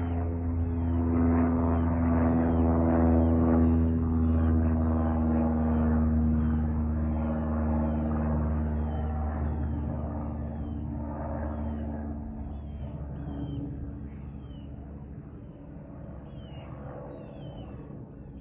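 An aircraft passing overhead, its engines a steady low rumble with a hum that is loudest a few seconds in, then slowly fades away. Small birds chirp throughout.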